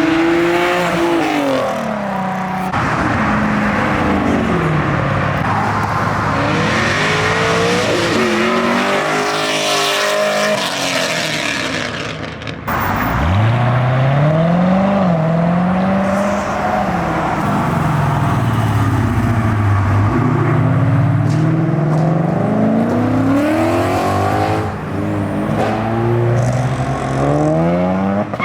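Sports car engines revving and accelerating away, the pitch climbing and dropping with each rev and gear change. About twelve seconds in there is a sudden break, then another car revs up hard and pulls away.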